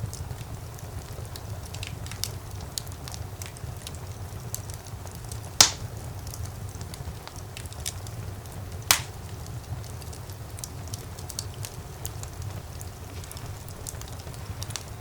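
Fire in a fireplace crackling, with frequent small snaps over a steady low rumble and two loud pops about three seconds apart.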